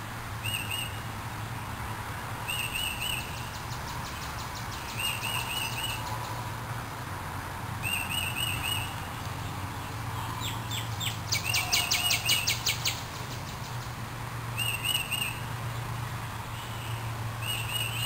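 Birds singing: one bird repeats a short chirped phrase every two to three seconds, and a faster, louder trill of rapid notes comes about eleven to thirteen seconds in. A steady low hum runs underneath.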